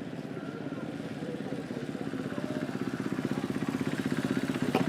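Dirt bike engine running with a fast, even pulse, growing steadily louder, as if the bike is coming closer. A sharp click near the end.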